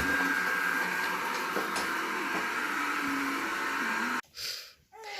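Scarlett robot vacuum cleaner running: a steady motor hum with a thin high whine. It cuts off suddenly about four seconds in, followed by a short burst of noise.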